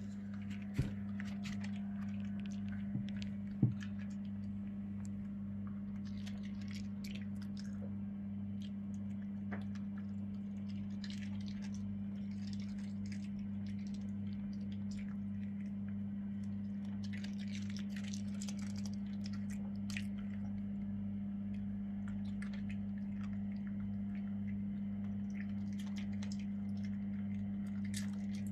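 A dog chewing and tearing at cabbage leaves, with scattered small crunches and crackles, over a steady low electrical-sounding hum.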